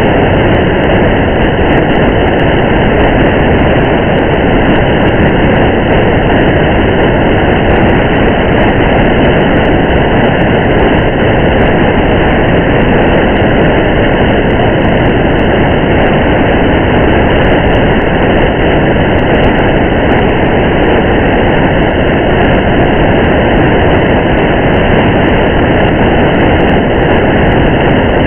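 Steady rainy-drive ambience: an even, unchanging rush of rain and road noise from a car driving on a highway, with faint scattered ticks of raindrops.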